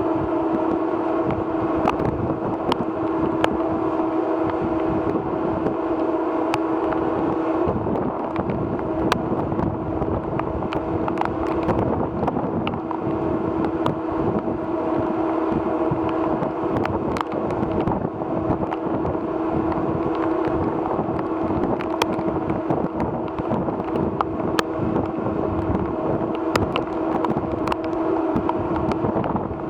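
Ferry MV Salish Eagle's engines running with a steady drone and low hum, the hum easing somewhat about a quarter of the way through, mixed with wind noise on the microphone and scattered sharp ticks.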